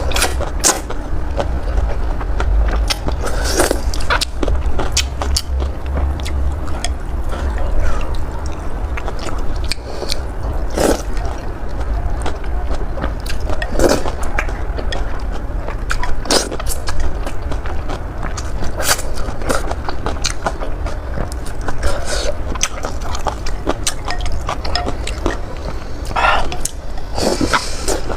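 Someone eating noodles close to the microphone: chewing with many short clicks and mouth smacks at an uneven pace, over a steady low rumble.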